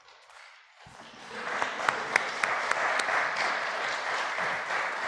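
Congregation applauding, starting faint and swelling to full applause about a second and a half in.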